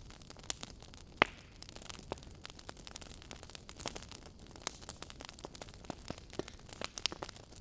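Wood fire crackling in an open fireplace: irregular sharp pops and snaps over a faint steady hiss, with one louder pop about a second in.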